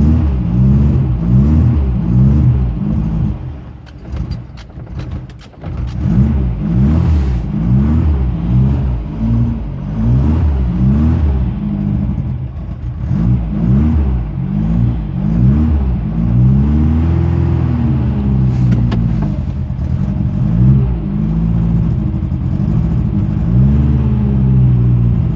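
The 1974 Porsche 914's 1.7-litre air-cooled Type 4 flat-four, on dual Dell'Orto carburettors with no choke, running just after a cold start at about −15 °C. The throttle is blipped over and over, about once a second, to keep it alive. About four seconds in it sags and falters, then picks up again.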